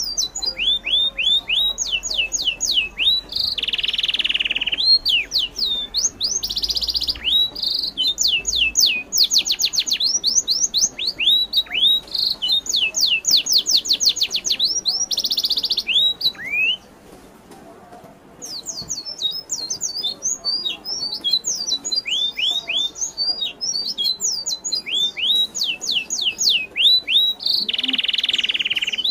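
Birds chirping: rapid runs of high, quick downward-sweeping notes, several a second, with a few short harsh squawks. The chirping breaks off for about a second and a half midway, then resumes.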